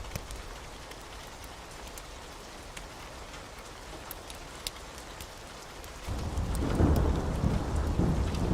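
Steady heavy rain with a few sharp ticks; about six seconds in, a deep thunder rumble sets in suddenly and keeps rolling.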